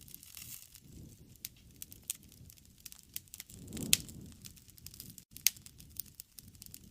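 Wood fire crackling, with sharp pops scattered throughout, the loudest about four seconds and five and a half seconds in, over a low rumble of flame.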